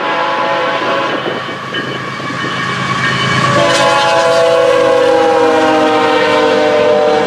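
Train passing with its multi-tone air horn blowing over the rumble of the cars. The horn chord sounds strongest from about halfway in and slowly drops in pitch as the train goes by.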